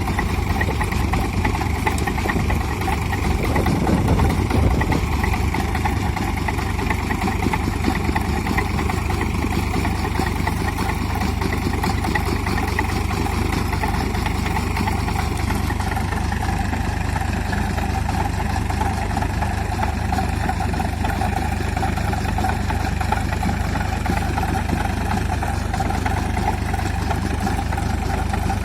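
Sonalika DI 745 tractor's three-cylinder diesel engine running steadily, briefly louder about four seconds in.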